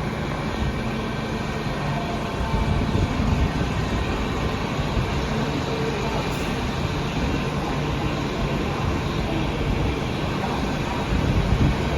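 Bombardier Innovia APM 100 rubber-tyred people mover, powered up and running: a steady hum and rumble with faint steady tones in it, getting a little louder near the end.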